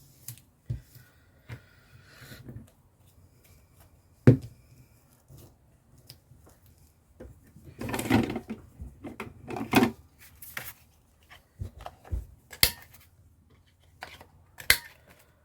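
Paper and card being handled on a craft table: rustling and crinkling, with scattered taps and knocks of small objects being set down and pressed.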